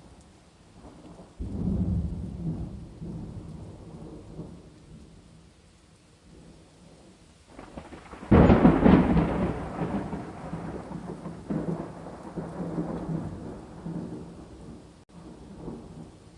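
Thunder over steady rain. A rumble begins about a second in and fades. About halfway through a louder, sharper clap breaks and rolls on, slowly dying away.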